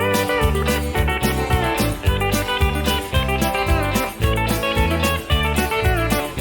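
Country band playing an instrumental passage: electric guitars and pedal steel guitar over bass and a steady drum beat, with some notes sliding in pitch.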